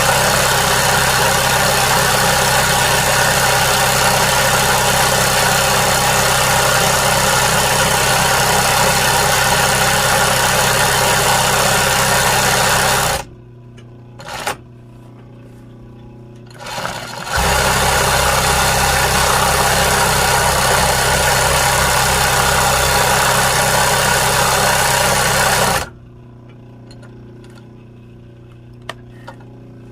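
Embroidery sewing machine stitching in steady runs. It stops about 13 seconds in, gives two brief spurts, runs again from about 17 seconds, and stops again about 26 seconds in.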